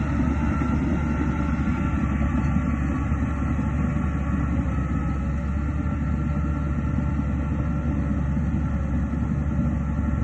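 Diesel engine of a Shantui DH17C2 crawler dozer running steadily under load, a low drone with a steady high whine over it.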